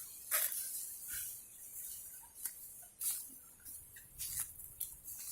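Footsteps crunching and rustling through dry fallen leaves on the forest floor, in an irregular run of crackly steps.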